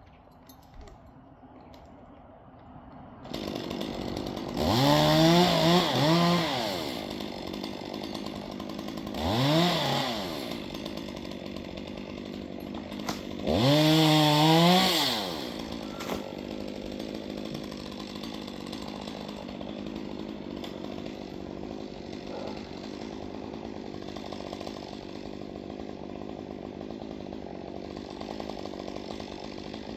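A chainsaw engine starts about three seconds in. It is revved up hard three times, its pitch rising and falling back each time, then runs on steadily at a lower speed.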